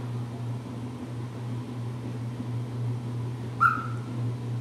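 Senegal parrot giving one short, high call about three and a half seconds in, over a steady low hum.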